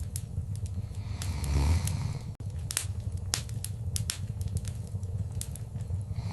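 Wood fire crackling: irregular sharp pops and snaps over a steady low rumble of flames, with a louder low surge about one and a half seconds in.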